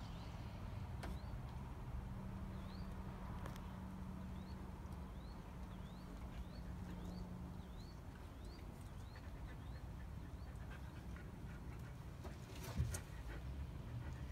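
A small bird chirping over faint low rumble, a run of short rising chirps about one or two a second that stops before the end, with a low hum under the first half. One sharp knock near the end is the loudest sound.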